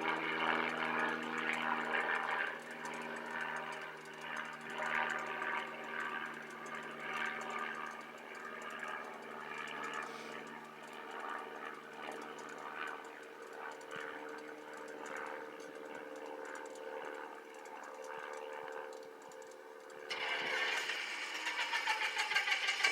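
Cessna 172's engine and propeller running steadily, with a rattle over the drone; about twenty seconds in it suddenly becomes louder and fuller.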